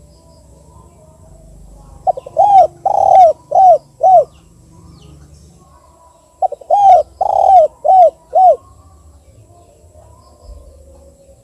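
Spotted dove cooing twice: each phrase is a couple of quick soft notes, then a coo, a long drawn coo and two short 'kuk' coos. This is the two-'kuk' call type used as a lure to set other spotted doves calling.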